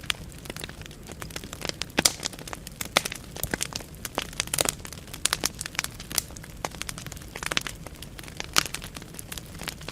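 Burning wood crackling and popping in a fireplace: a steady stream of irregular sharp snaps over the low rumble of the flames.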